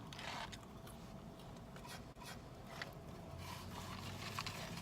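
Faint rustling and crinkling of a takeout food bag as someone rummages inside it, with a few soft ticks. A low steady hum comes in about two-thirds of the way through.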